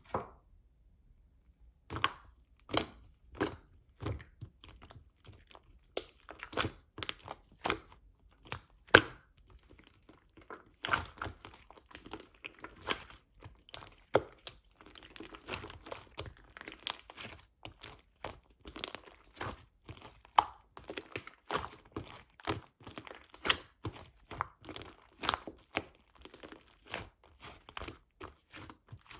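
Slime being squeezed, stretched and folded by hand: an irregular run of sticky pops and crackles that starts about two seconds in.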